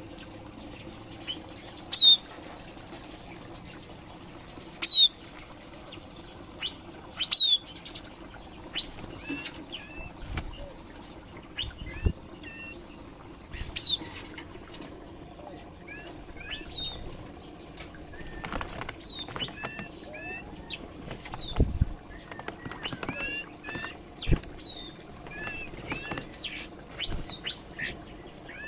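Green leafbirds and other small aviary birds calling while feeding: four loud, sharp high calls sweeping downward in the first fifteen seconds, then many short chirps, busiest in the second half, with a few soft thuds among them.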